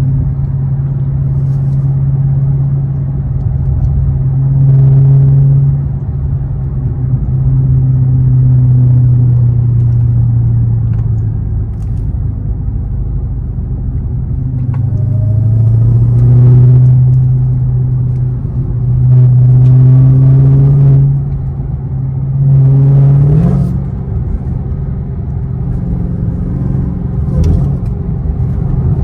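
Dodge Charger Hellcat's supercharged 6.2-litre V8 on its stock exhaust, with mid mufflers still fitted, running under way with a steady low drone. Several times it swells louder and rises in pitch as it picks up throttle, then settles back to cruise.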